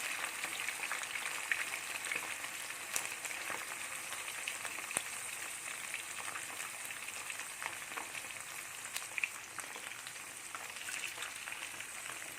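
Mackerel coated in a wet chilli paste sizzling steadily in hot coconut oil in a pan, with scattered sharp pops and crackles from the oil.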